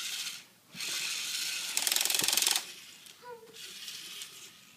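Toy battery drill running in three short bursts with a fast ratcheting clatter, the middle burst the longest and loudest.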